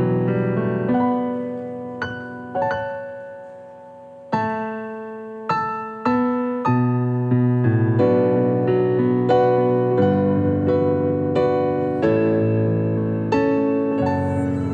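Slow, gentle piano music: chords and single notes struck and left to ring and fade, with a brief lull about three seconds in before the playing picks up again.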